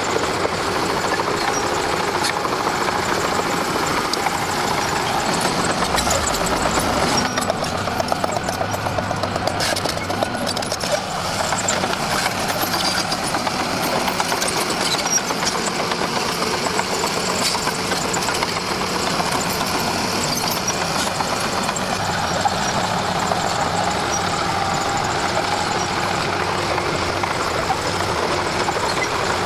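Komatsu D41P crawler bulldozer's diesel engine running steadily under load while pushing. A stretch of rattling knocks comes about a quarter of the way in.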